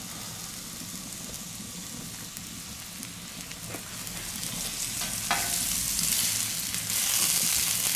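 Tofu slices and onions frying in freshly poured oil on a hot steel fire plate, a steady sizzle that grows louder from about halfway through.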